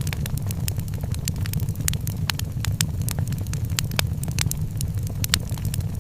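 Wood fire in a fireplace crackling, many sharp pops scattered irregularly over a steady low rumble.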